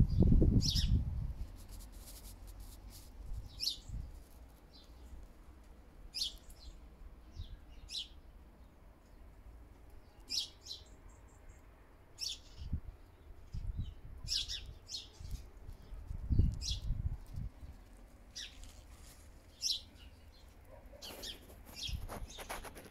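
Small bird chirping: short, high single chirps repeated every second or two. A few low rumbles on the microphone, loudest right at the start and about two-thirds of the way through.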